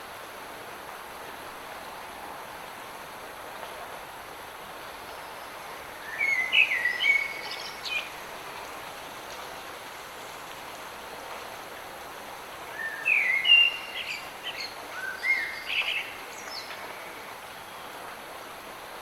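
Steady hiss of light rain, with a songbird singing two short phrases of chirping, stepping notes, about six seconds in and again around thirteen seconds in.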